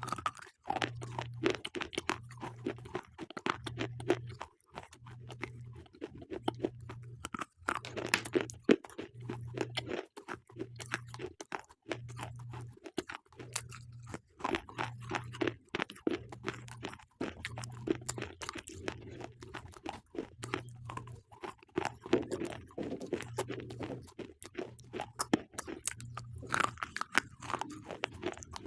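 Slate pencils being bitten and chewed: continuous dense crunching and crackling close to the microphone.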